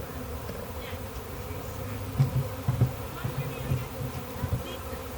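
Honey bee swarm buzzing: a steady, dense drone of many bees in flight. A few louder low bumps come through in the middle.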